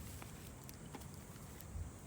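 Wood campfire crackling faintly, a few small scattered snaps, over a low rumble, with one dull thump near the end.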